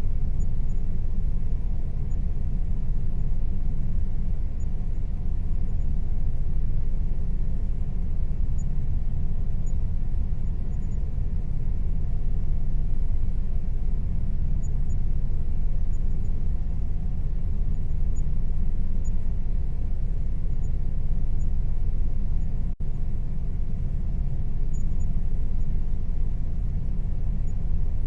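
Air conditioner running: a steady low rumble with a faint steady hum above it, briefly cutting out for a split second about 23 seconds in.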